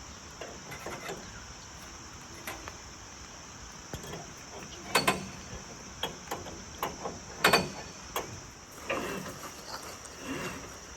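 Steady high chirring of insects, with scattered knocks and clanks over it. The two loudest knocks come about five and seven and a half seconds in.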